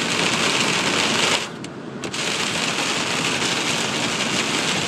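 Rain mixed with hail pelting the car's roof and windshield, heard from inside the cab as a dense, rapid patter. It drops away abruptly for about half a second a little way in, then comes back at full strength.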